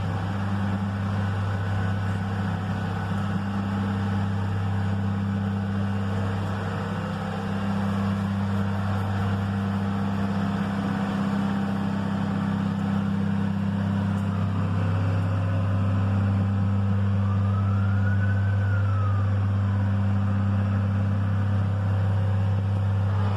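Steady low diesel engine drone of the Loram shoulder ballast cleaner train as it backs slowly through the switches. A faint tone rises and falls once about three-quarters of the way in.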